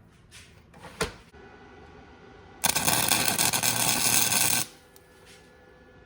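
A couple of light knocks, then a flux-core wire welder's arc crackling for about two seconds in one tack-weld attempt on a cast-iron dumbbell end and its steel handle, stopping abruptly.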